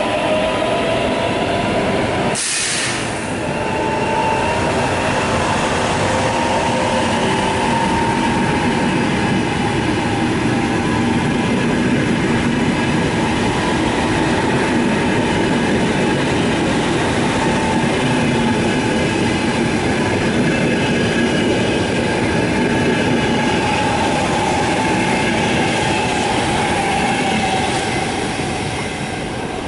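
Trenitalia ETR 485 Frecciargento electric train running past along the platform: steady wheel-on-rail noise with a whine from its electric drive, and one sharp knock about two and a half seconds in. The sound eases off near the end as the last car goes by.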